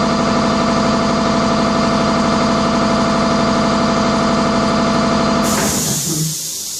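Vehicle engine idling steadily. About five and a half seconds in, the engine sound cuts off abruptly and gives way to a quieter hiss.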